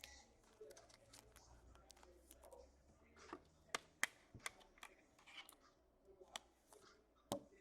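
Faint handling of trading cards: light rustling and a scattering of sharp clicks and taps as cards are moved and flipped through, the loudest tap near the end.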